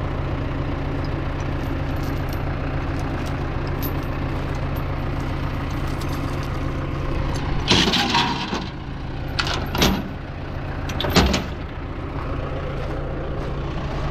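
Engine of farm machinery running steadily, with three short, loud, harsh bursts of noise about eight, ten and eleven seconds in.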